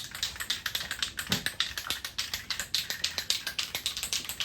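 Aerosol can of high-heat spray paint being shaken, its mixing ball rattling in a rapid, steady run of clicks, several a second, to mix the paint before spraying.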